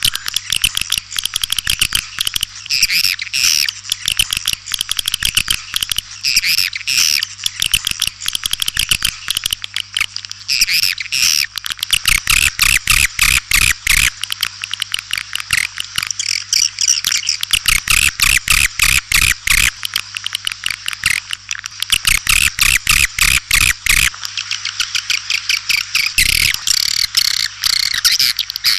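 White-nest swiftlets calling: a dense, unbroken stream of rapid chirps and clicking twitters from many birds. This is the kind of swiftlet call sound played to draw the birds into a nest house.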